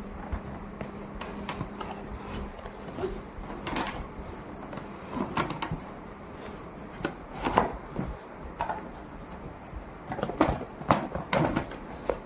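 Irregular knocks and clicks of things being handled and set down inside a cupboard, with a denser run of louder knocks near the end.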